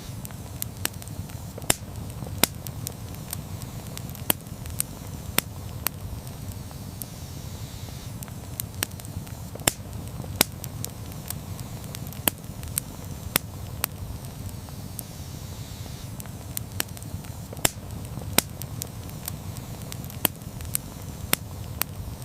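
Campfire burning and crackling: irregular sharp pops and snaps, a few of them louder, over a steady low rumble.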